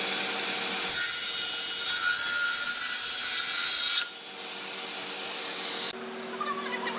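A handheld power tool working red hardwood: a loud, even hiss of abrasion that strengthens about a second in, then drops off after about four seconds. A steady lower machine hum takes over near the end.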